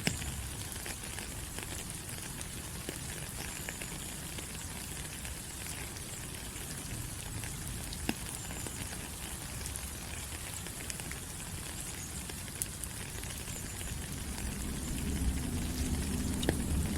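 Steady tropical rain falling on forest leaves: an even hiss full of small, separate drop ticks. A low rumble swells near the end.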